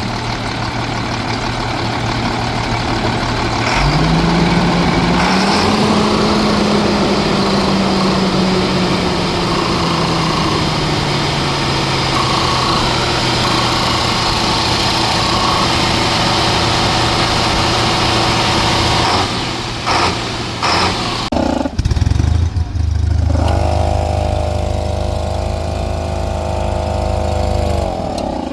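Heavy truck engine running, rising in speed about four seconds in, then slowly settling back over many seconds. Near the end the sound breaks up with a few jolts, and a different engine note with a steady pitch takes over until the end.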